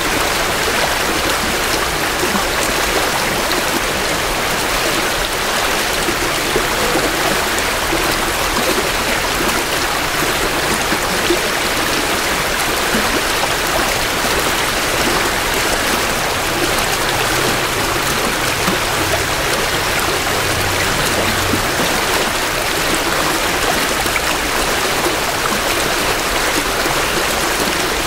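A small creek running full with spring runoff: a steady rush and splash of water flowing over rocks, close to the water's edge.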